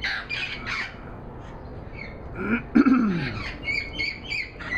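Wild parrots squawking: a run of harsh calls at the start and again toward the end. Around the middle there is a louder, lower-pitched sound that falls in pitch.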